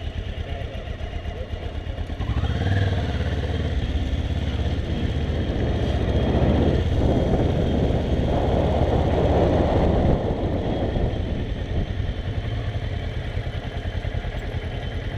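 Kawasaki ER-6n parallel-twin engine running at low riding speed. It opens up a little about two seconds in and pulls harder through the middle with a building rush of noise, then eases back off near the end.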